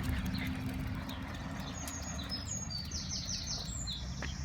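A small songbird singing a quick run of high, short, downward-sliding notes, starting about halfway through, over a steady low background rumble.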